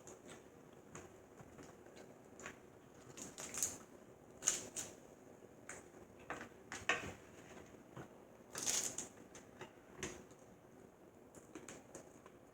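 Close-up eating of snow crab legs: scattered small cracks and clicks of shell, with a few short wet sucking sounds.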